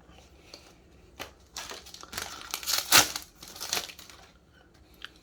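Crinkling and rustling of a foil booster-pack wrapper being handled and torn, in a run of short bursts from about a second in, loudest near three seconds.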